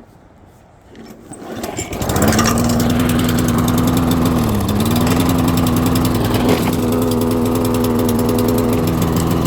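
Old Toro walk-behind lawnmower engine started: it catches about two seconds in and runs steadily at speed, sagging briefly in pitch about halfway through before picking back up. It is running with its choke stuck.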